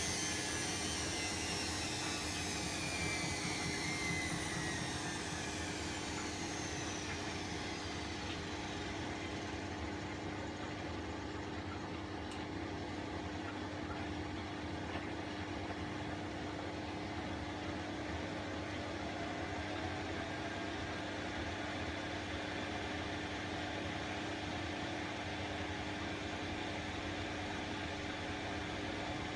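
Bosch WAE24162GB03 washing machine slowing down from a spin: a high motor whine falls in pitch over the first eight seconds or so, then a steady low hum carries on.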